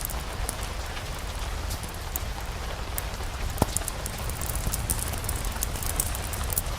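Steady rain pattering, layered with a low wind rumble and the fine crackle of a fireplace fire, with one sharper pop about three and a half seconds in.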